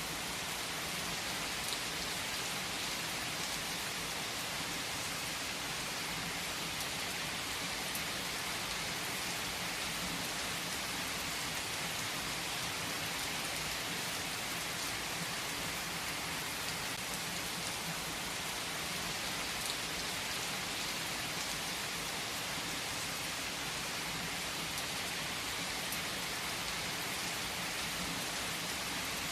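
Steady rain falling, an even hiss with a few louder drops ticking now and then.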